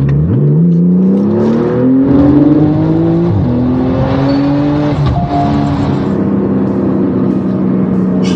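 Porsche 991 Turbo's twin-turbo flat-six, breathing through an iPE valved exhaust, accelerating hard. The engine note rises, falls at an upshift about three seconds in, rises again to a second upshift about five seconds in, then holds a steady drone.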